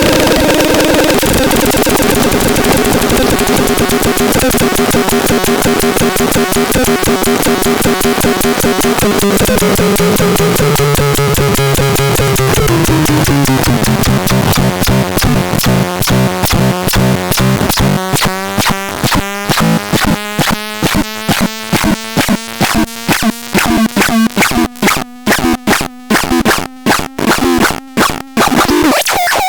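Harsh electronic buzzing and noise from the ELKER sound generator: held tones over a dense pulse train, stepping down in pitch about halfway through. The pulses then slow into separate choppy clicks and cut off near the end.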